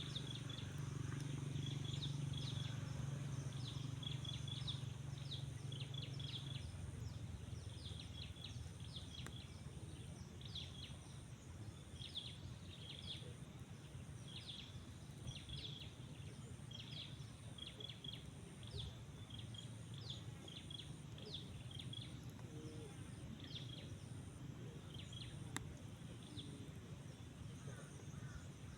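Small birds chirping, short high calls repeated in little clusters, over a low steady rumble that drops off about six seconds in.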